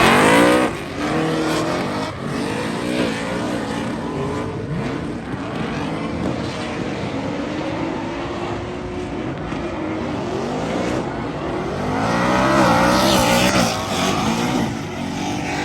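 Drift cars' engines revving hard, rising and falling in pitch again and again as they are driven, with tyre squeal. Loudest right at the start and again about three-quarters of the way through.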